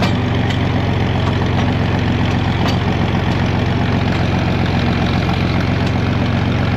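John Deere 4000 tractor engine idling steadily.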